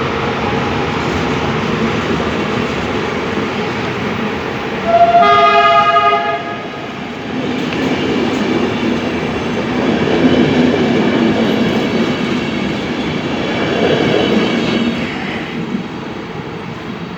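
Train running with a steady rumble, and a locomotive horn sounding one loud blast of about a second and a half, about five seconds in.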